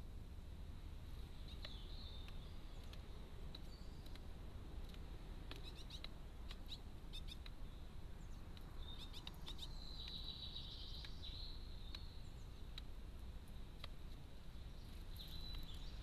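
Faint bird chirping in several short spells, the longest about nine to twelve seconds in, with scattered light clicks over a steady low hiss.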